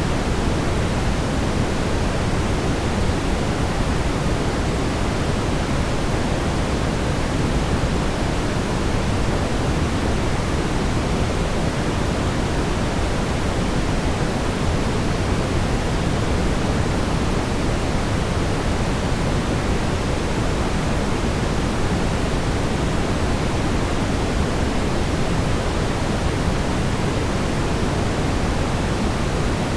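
Steady brown noise: an even, deep rumbling hiss, strongest in the low end, with no change in level.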